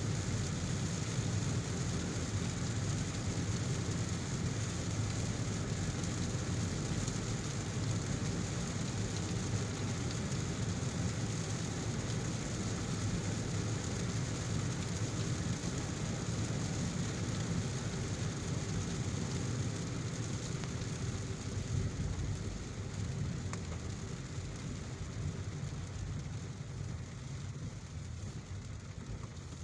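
Steady hiss of heavy rain over the low rumble of a car driving on a wet road, easing slightly near the end.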